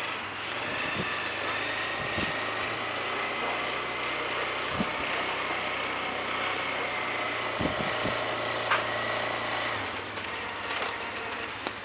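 ATV engine running steadily with a thin, high, steady whine.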